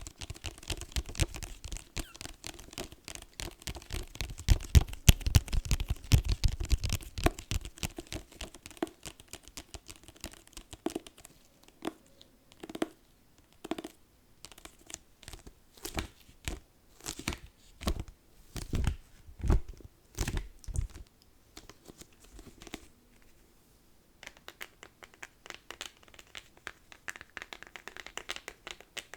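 Close-miked book sounds: fingernails scratching rapidly over a book, then a run of separate sharp taps on it, then faint rustling of paper near the end.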